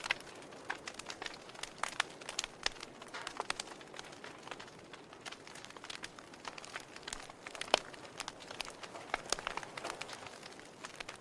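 Wood fire in a fireplace crackling: irregular sharp pops and snaps over a soft steady hiss, with one louder pop about two-thirds of the way through.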